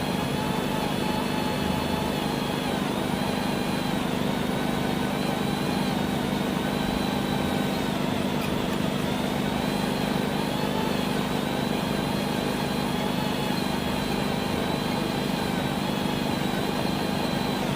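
Power drill running steadily under load, boring through the steel rear trunnion of a Draco pistol, its motor pitch wavering slightly.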